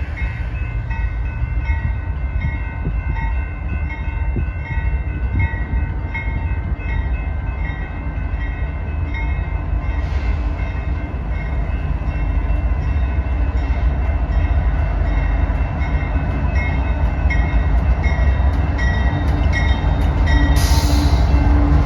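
A train running past with a steady low rumble that grows louder, while a grade-crossing warning bell dings at an even rhythm. Near the end a sharp hiss cuts in.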